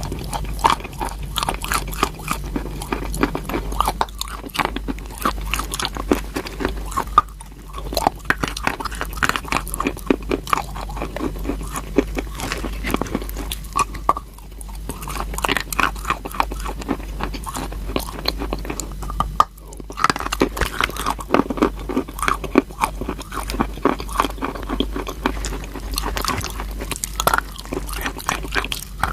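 Crunchy chalk being bitten and chewed close to the microphone: dense, continuous crunching, broken by three short pauses.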